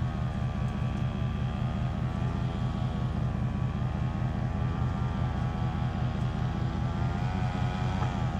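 Weed eater engine powering a kayak, running steadily at a constant speed with its pitch wavering gently.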